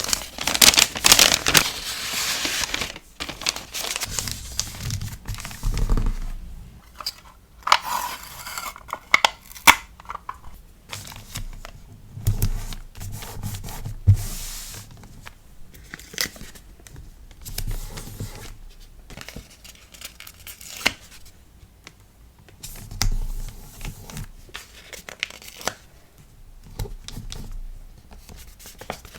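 Packaging handled for a sticker order: paper or plastic torn and crinkled by hand, with a long loud tearing rasp in the first few seconds, then irregular rustling, crinkling and light taps.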